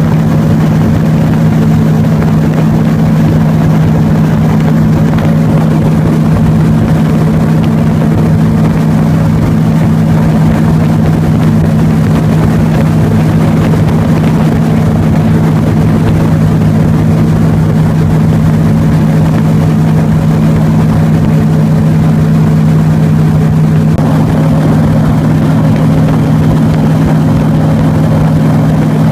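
Airboat engine and propeller running steadily at speed, a loud continuous drone; the pitch shifts slightly up about 24 seconds in.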